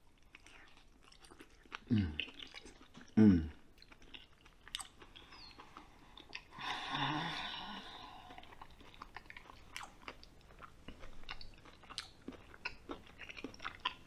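Close-up chewing and mouth smacks from eating roasted lamb cheek meat, with two short, loud falling hums about two and three seconds in and a breathy sound about seven seconds in. Through the rest of it come small clicks and scrapes as a knife works the meat on the board.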